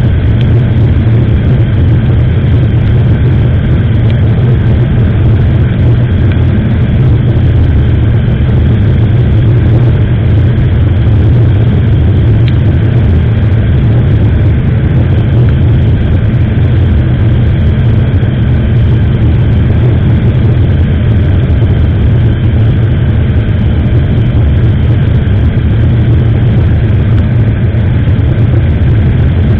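Steady, loud low rumble of a motorcycle ride recorded on an SJCAM action camera's microphone: the engine running at a steady speed under heavy wind noise.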